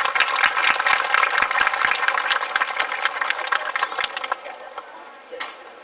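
Audience applauding, dense clapping that thins out about four seconds in to a few last separate claps.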